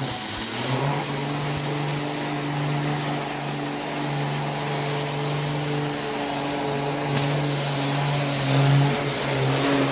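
Semi truck's diesel engine running hard under load, with a high turbocharger whistle that climbs over the first second and then holds steady above a steady engine drone. There is a brief sharp click a little after seven seconds in.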